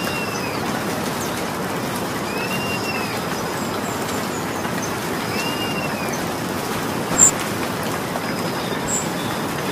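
Steady rain falling. A bird calls faintly three times, a rising-then-falling note about every three seconds, with a few short high chirps in the second half.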